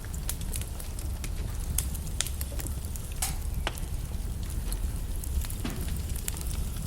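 Logs burning in a fireplace, crackling with irregular sharp pops over a low, steady rumble of the flames; one louder pop about three seconds in.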